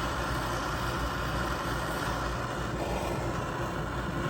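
Handheld gas torch burning with a steady hissing roar while it heats a rust-seized bolt on a golf cart starter-generator.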